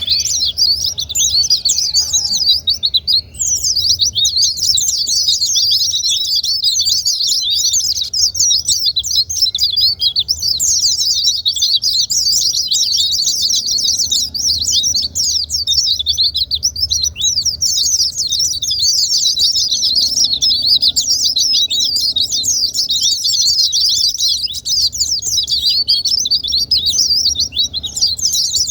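White-eye (pleci) song: a dense, continuous run of rapid, high chirps and twitters, with a short break about three seconds in.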